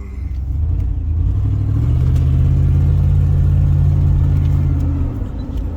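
A motor vehicle's engine running with a low, steady drone. It swells about a second in, holds, and eases off again near the end, as when a driver pulls over and slows to a stop.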